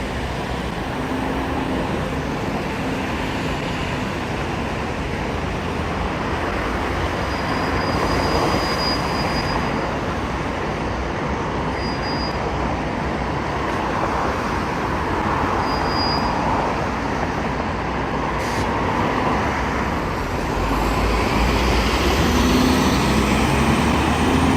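Scania K94UB bus running under way: steady engine rumble with road and body noise. A few short high squeaks come about 8, 12 and 16 seconds in, and the engine note grows fuller near the end.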